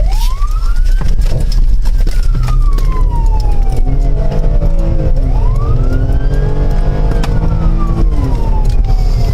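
Police car siren in a slow wail, climbing and falling in pitch about twice, over a loud, steady low vehicle rumble.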